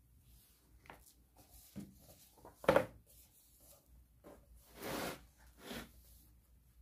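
Household objects being handled: scattered light clicks and taps, a sharper knock a little under three seconds in, then two short rustling swishes near the end.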